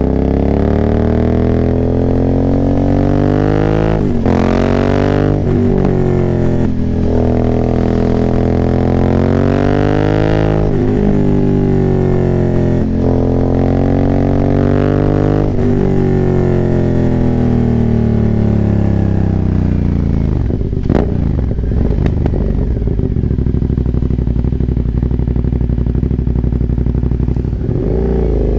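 Aprilia Dorsoduro 900's 896 cc V-twin, decatted and breathing through a full Arrow exhaust, accelerating hard through the gears: the pitch climbs and drops back at each of several upshifts. Past the middle the throttle rolls off and the pitch falls, with a few sharp pops on the overrun. The engine then runs low and steady before climbing again near the end.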